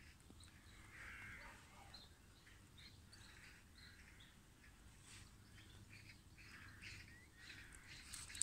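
Faint birdsong from several birds: many short chirps and calls scattered throughout.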